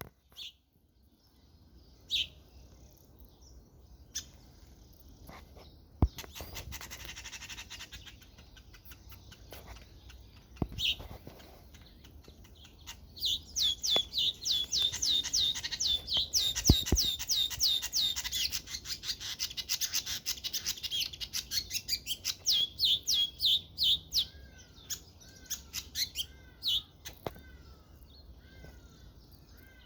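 Bird chirping and calling: single high chirps at first, then a long fast run of short falling chirps, about three or four a second, for roughly ten seconds midway, followed by a few lower, shorter falling calls.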